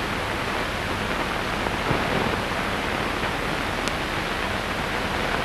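Steady hiss of an old optical film soundtrack, with no distinct sound over it.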